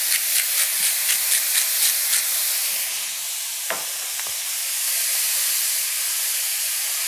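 Finely chopped cremini mushrooms sizzling steadily in a hot cast-iron skillet. Over the first two seconds a pepper mill grinds above the pan in quick repeated strokes, about three or four a second. Two brief clicks come a little past the middle.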